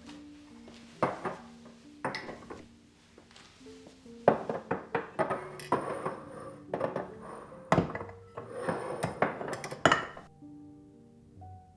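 Hard household items clinking and knocking as they are handled and set down: a couple of knocks early, then a quick, busy run of them through the middle and later part, ending suddenly. Soft background music plays under it.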